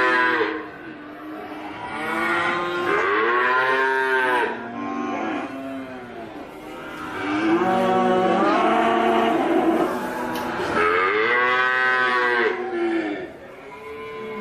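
Cattle mooing: a series of long moos, one after another, each rising and then falling in pitch.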